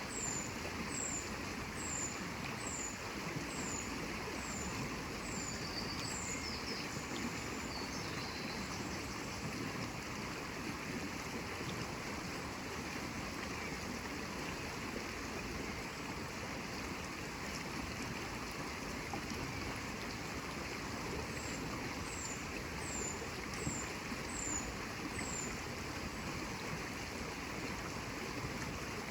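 Steady rush of flowing water, like a stream. A bird sings a string of short, falling high whistles about one and a half a second, twice: once at the start and again a little past the middle.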